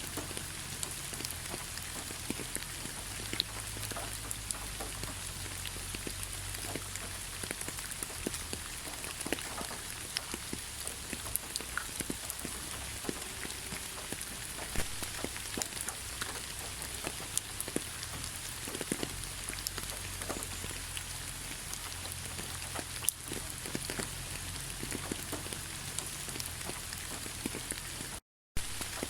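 Heavy rain falling: a steady, even hiss with many individual drops landing close by. The sound cuts out completely for a split second near the end.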